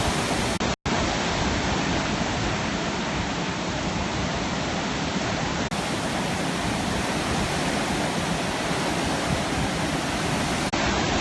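Heavy sea surf, a steady rush of water noise with no distinct breaks. The sound cuts out completely for a moment under a second in.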